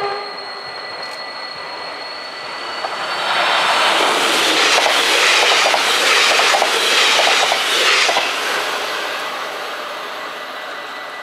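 NS double-deck electric passenger train passing at speed. Its rush of wheels and air swells from about three seconds in and is loudest from about four to eight seconds, with a run of wheel clacks over the rail joints, then it fades away.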